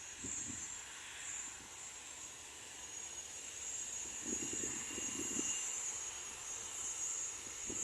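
Boeing 737-700's CFM56-7B jet engines running in the distance: a steady high-pitched whine with hiss, and a brief low rumble midway.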